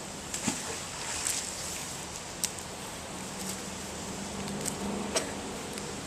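Steady outdoor background noise with a low hum underneath, and a few short sharp clicks, the clearest about half a second in, near the middle and about five seconds in.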